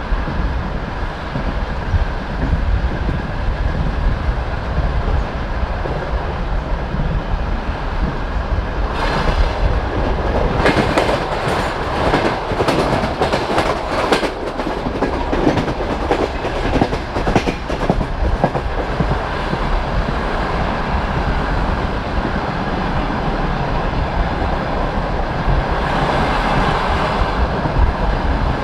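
Passenger train coach wheels rumbling and clattering over the rail joints. About nine seconds in, the sound grows louder with a rapid run of clicks for several seconds, then settles back to a steady rumble, with another brief rise near the end.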